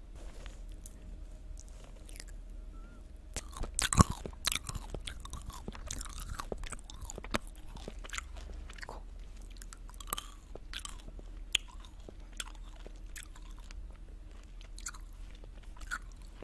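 Small hard candies being bitten and chewed close to a microphone. There is one loud crunching bite about four seconds in, then scattered crunches as they are chewed.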